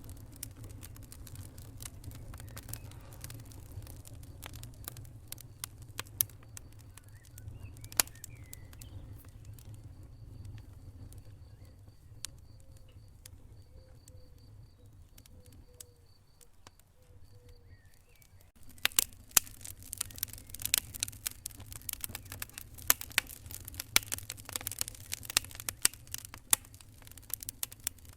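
Wood fire in a fireplace crackling and popping over the low rumble of the flames. The pops are sparse at first, then grow denser and louder about two-thirds of the way through.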